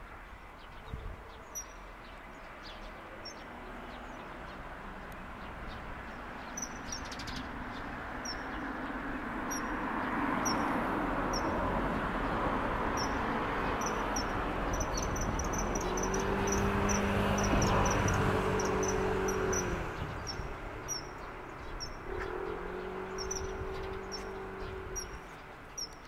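Short, high-pitched bird calls repeated irregularly, coming in a quick run about halfway through, over a broad background rumble that swells to its loudest a little past the middle, with a low droning hum in the second half.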